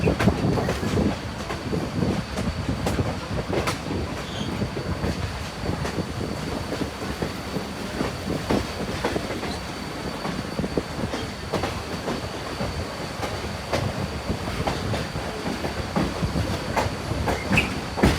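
Excursion train rolling along the track: a steady rumble from the cars, with wheels clicking irregularly over the rail joints.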